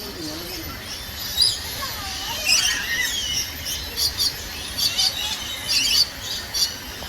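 Birds chirping and calling: a string of short, sharp, high chirps with a few gliding whistles, coming more often in the second half.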